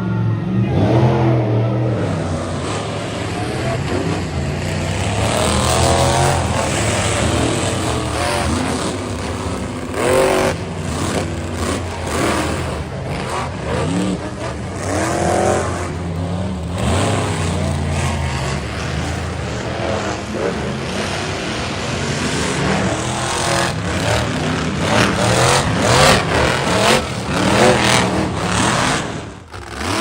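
Monster truck engines revving hard, the pitch climbing and falling again and again, with a run of sharp knocks near the end.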